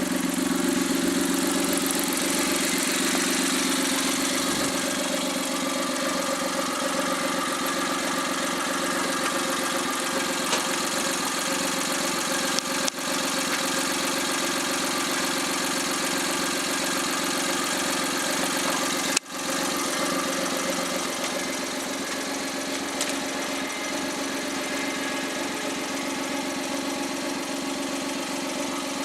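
Rebuilt Suzuki K6A 660 cc three-cylinder turbo engine idling steadily on a test run after its overhaul, with two brief breaks in the sound partway through.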